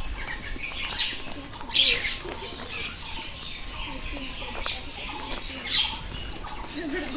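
Birds calling in short, sharp chirping bursts, the loudest about two seconds in and again near six seconds, over a steady low background hum.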